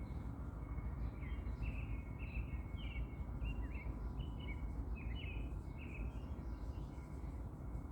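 Songbird chirping a quick run of short, sharp notes for several seconds, over a steady low rumble of background noise.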